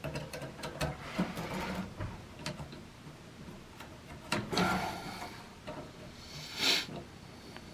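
Handling noises from work on a water heater's gas valve: a run of small clicks and knocks, with two brief scraping rushes about four and a half and six and a half seconds in.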